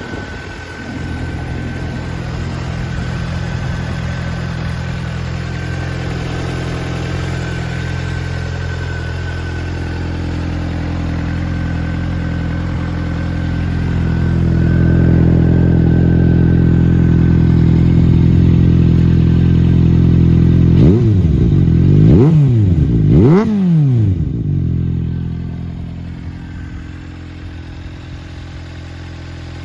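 Suzuki GSR400's inline-four idling through a WR'S aftermarket twin-outlet rear exhaust. The note grows louder about halfway, then three quick throttle blips come a little over two-thirds in before it settles back to idle.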